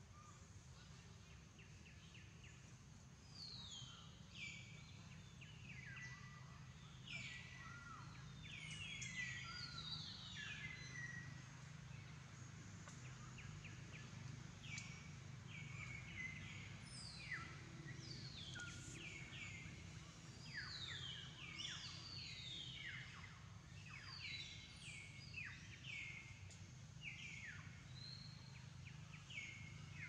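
Birds chirping: many short calls that slide downward in pitch, repeated and overlapping, starting a few seconds in, over a faint steady low hum.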